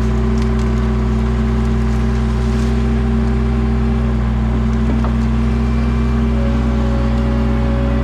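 Toyota SDK7 skid steer's engine running steadily at constant speed. A steady higher whine joins about six seconds in.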